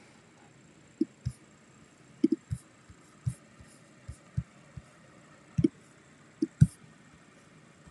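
A series of short, low thumps at irregular intervals, about a dozen, some in quick pairs, over a faint steady background.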